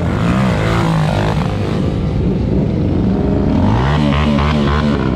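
Motorcycle engines running and revving, with one engine's pitch climbing about three and a half seconds in.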